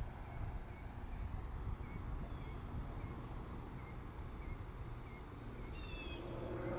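A bird repeating a short high chirp about twice a second, with a brief trill from another bird near the end, over a low rumble.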